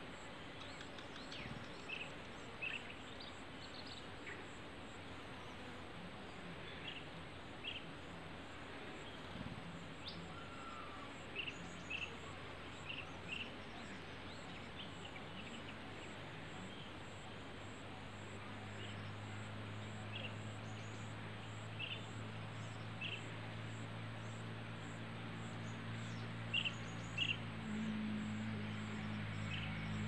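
Flycatcher giving short, sharp call notes, often in pairs, every few seconds over a steady background hiss. About halfway through, a low engine drone comes in and slowly grows louder.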